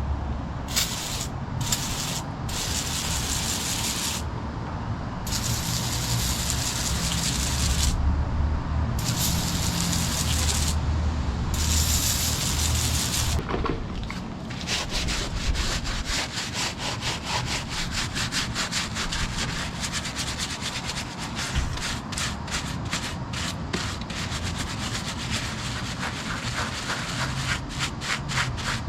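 Hand rubbing on a metal part with quick back-and-forth strokes, several a second. In the first half it runs as a steady rough noise broken by short pauses, and from about halfway the separate strokes are distinct.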